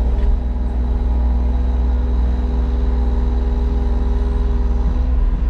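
Excavator engine running steadily under load with a low, even hum while digging.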